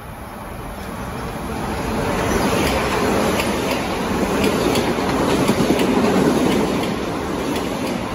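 Metro-North M7A electric commuter train passing close by, growing louder over the first couple of seconds as it comes in, then a steady rumble with repeated clicks of the wheels over rail joints.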